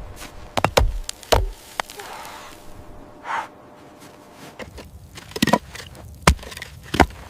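A series of irregular sharp knocks and thumps: several close together in the first second and a half, then a few more near the end.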